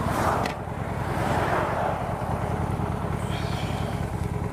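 Honda Shadow Spirit 750's V-twin engine running with a steady low rumble, heard from the rider's helmet camera. A rushing swell of noise rises and fades over the first two seconds, with a sharp click about half a second in.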